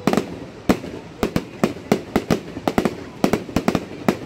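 Fireworks going off in a rapid, irregular string of sharp bangs, about four a second.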